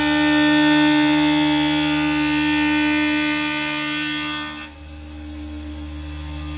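Milltronics TRM3016 CNC mill spindle running at 4,500 rpm with the cutter in the cut: a loud, steady, high-pitched machining whine made of several fixed tones. About 4.7 s in, the upper part of the whine drops away and only a lower, quieter spindle hum remains.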